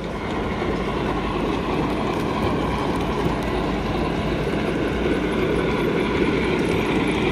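A train running on rails: a steady rumble and rail noise with a few faint high ringing tones above it.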